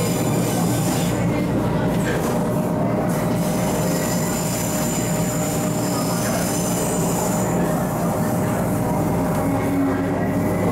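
MTR East Rail Line MLR (Metro-Cammell) electric train running, heard from inside a carriage: steady rolling noise of wheels on rail under a thin steady whine from the traction equipment.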